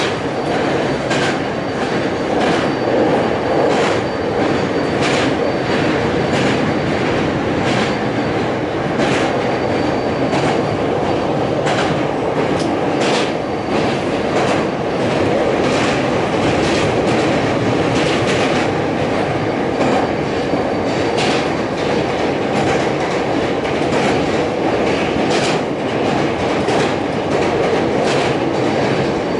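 Hankyu electric train running at speed, heard from inside the front car: a steady rumble of wheels on rails with frequent sharp clicks as the wheels pass over rail joints.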